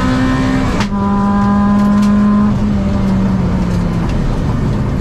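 Škoda Fabia 1.4 16v four-cylinder engine heard from inside the cabin under hard acceleration, with a quick upshift about a second in that drops the engine note. After it the note slowly sinks and thins out under road and wind noise.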